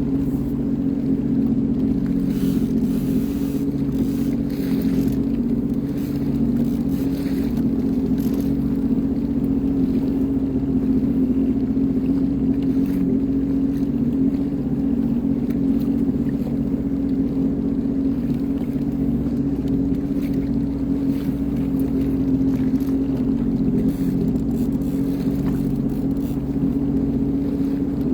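Sea-Doo Fish Pro personal watercraft engine running at a steady speed under way, a constant low hum, with a few brief rushes of noise in the first several seconds.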